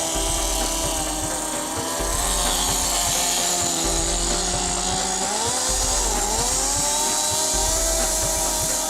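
Small RC nitro glow engine running, its pitch dipping and rising again about six seconds in as the throttle changes, over background music with a pulsing bass.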